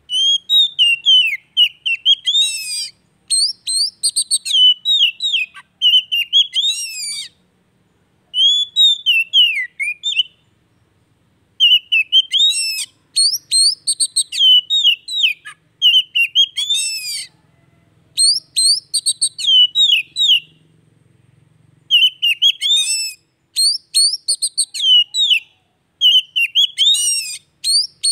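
Oriental magpie-robin (kacer) singing: phrases of quick, varied rising and falling whistles and chirps, each a second or two long with short pauses between, beginning suddenly.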